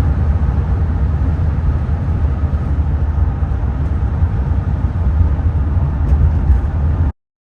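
Steady road rumble of a van driving at highway speed, a deep continuous rumble with hiss over it, cutting off abruptly about seven seconds in.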